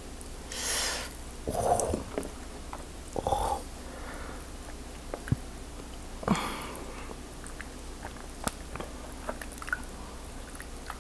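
Close-miked chewing and mouth sounds of someone eating lobster, with a few short bursts and small clicks from handling the lobster meat and a plastic tub of melted butter.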